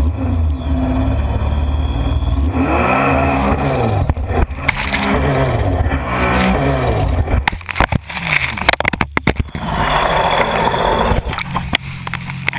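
Jet ski engine running, its pitch rising and falling several times as the throttle changes. In the second half come a cluster of sharp knocks and a rush of noise.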